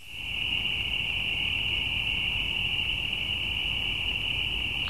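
Steady high-pitched chirring of night insects, unbroken throughout, over a low rumble.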